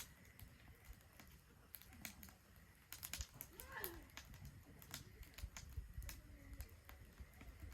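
Wood fire crackling in a Solo Stove Ranger fire pit: faint, scattered sharp pops and snaps, thickest about three seconds in.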